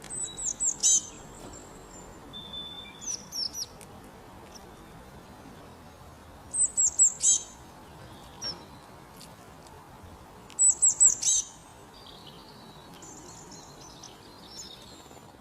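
Small songbird singing: a short, high phrase of several quick downward-slurred notes ending in a brief buzz, repeated three times, with softer calls from other birds in between and near the end over a faint steady background hiss.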